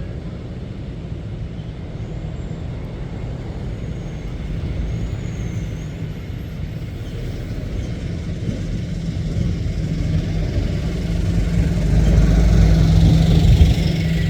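Diesel engine of a heavy lorry (HGV) pulling out, its low rumble building louder toward the end, with a short air-brake hiss near the end.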